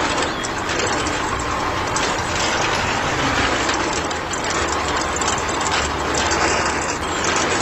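A small motor running through plastic gears, a steady rattling with rapid clicking.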